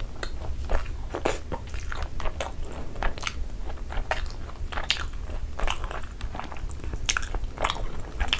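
Close-miked eating sounds: a person biting and chewing tandoori chicken, with irregular sharp crunches and wet mouth clicks.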